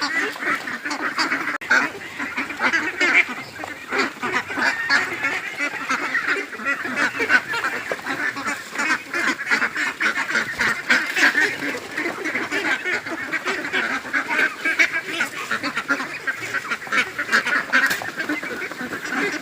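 A large flock of domestic ducks quacking continuously, many calls overlapping into a steady chatter.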